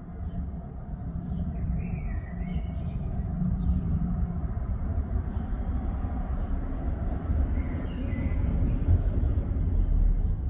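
Low, noisy rumble that builds toward the end, with birds chirping now and then.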